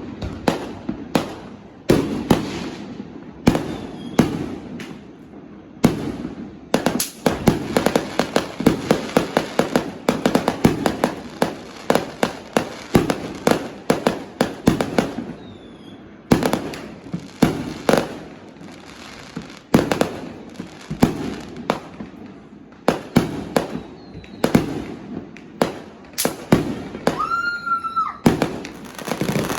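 Fireworks and firecrackers going off: many sharp bangs, with a dense run of rapid crackling in the middle. Near the end a short whistling tone rises, holds and falls.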